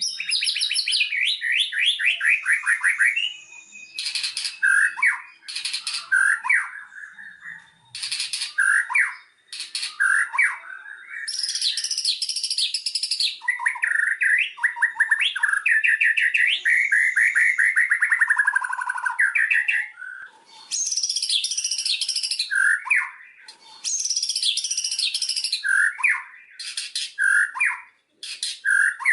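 White-rumped shama (murai batu) singing its varied song: phrases of fast repeated notes and trills, some sliding down in pitch, with short breaks between phrases.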